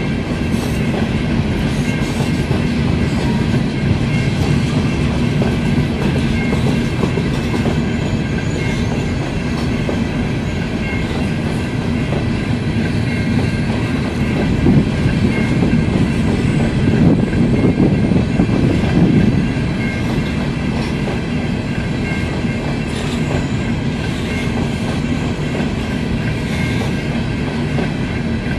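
Freight train of hopper cars rolling past, with a steady wheel-on-rail rumble and clatter that grows a little louder for a few seconds about halfway through.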